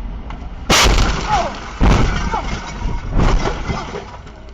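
Three loud crashing impacts about a second apart, each followed by a short rattling ring with brief falling squeals, as of vehicles colliding.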